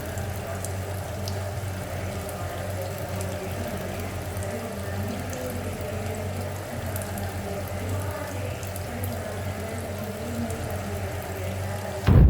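Kitchen tap water running into a sink, a steady rush with a constant low hum under it and faint scattered clinks. A loud thump right at the end, then the sound cuts off.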